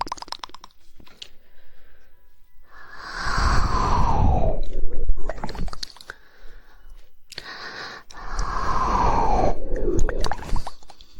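Close-miked ASMR mouth sounds: scattered tongue clicks and two long wet mouth swells, about three seconds in and again about eight seconds in, each sliding down in pitch.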